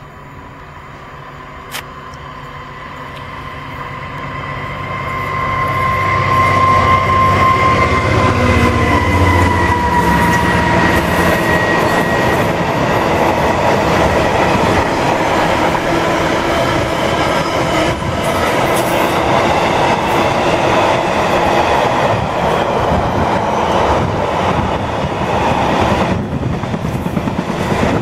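EWS Class 66 diesel locomotive approaching and passing at the head of a container train, its two-stroke V12 diesel growing louder, with a whine that drops in pitch as it goes by. A long string of container wagons then rumbles past, wheels clicking over the rail joints.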